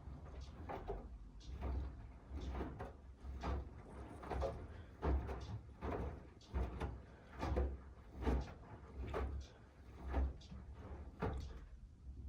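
Miele W1 front-loading washing machine drum turning, with laundry tumbling and water sloshing in regular surges about once a second over a low motor hum; the surges die away near the end.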